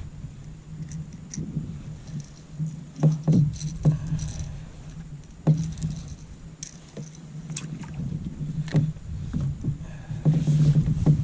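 Sharp knocks and rattles against a plastic fishing kayak's hull, several of them spread out, over a low steady hum, as a hooked walleye is landed and handled in the kayak.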